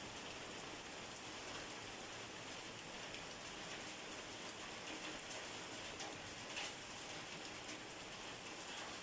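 Steady rain falling and pattering on a surface, with scattered individual drops ticking through it.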